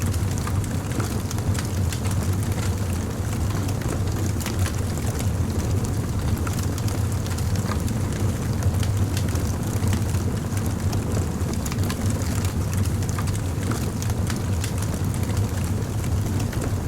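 Wood fire crackling, with many small sharp pops and snaps scattered over a steady low rumble.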